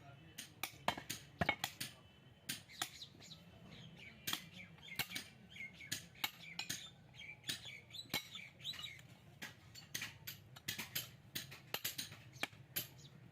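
Irregular, sharp metallic clinks and taps, several a second and uneven in loudness, with birds chirping in the background.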